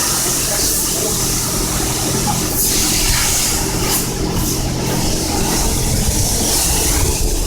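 Self-serve car wash pressure wand spraying steadily: a continuous hiss of water over the low hum of the high-pressure pump.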